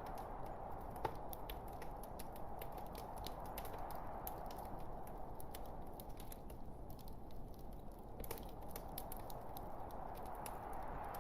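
Log fire burning in a fireplace: a steady hiss with scattered sharp crackles and pops, one louder pop about a second in.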